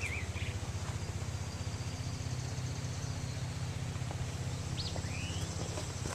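A steady low mechanical drone with a fast flutter, like a motor running at a distance. Birds give a couple of short rising chirps near the middle.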